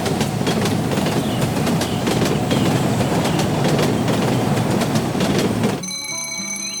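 A loud, steady rumbling noise full of rapid clattering clicks, which cuts off suddenly about six seconds in.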